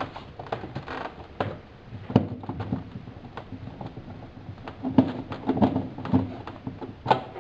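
A run of irregular knocks and clicks, like hard parts being handled and set in place, with the loudest ones about 2 s in, several more around 5 to 6 s, and one near the end.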